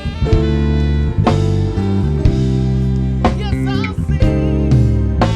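A worship band plays a slow song: a drum kit strikes roughly once a second under sustained chords. A singer holds wavering notes from about three seconds in.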